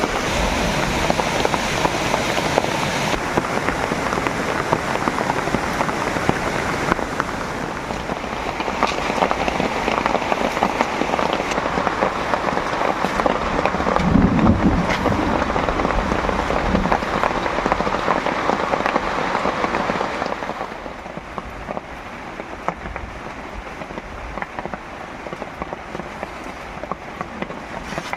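Heavy rain falling, a dense patter of drops. About halfway there is a brief low rumble, and a little after two-thirds of the way through the rain becomes quieter.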